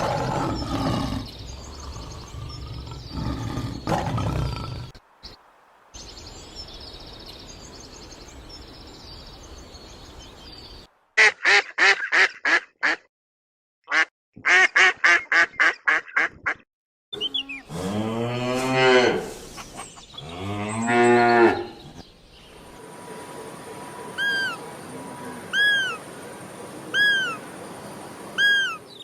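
A string of different animal calls: a rough low sound at the start, then two runs of quick, evenly repeated calls, then two long, low cow moos, and near the end four short, evenly spaced chirps.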